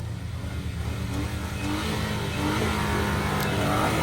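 Jeep Cherokee engine revving, its pitch wavering up and down and getting louder about halfway through.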